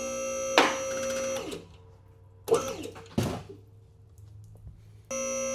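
Vehicle lift's electric hydraulic pump motor whining in two short bursts of about a second and a half each, starting and stopping abruptly, with a few knocks in between.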